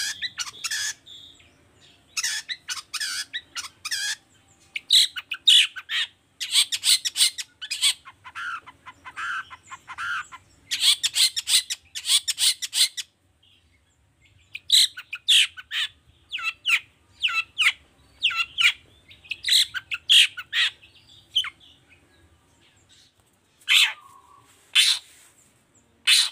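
Long-tailed shrike (cendet) singing in rapid runs of short, sharp notes, broken by a pause about halfway through and another near the end.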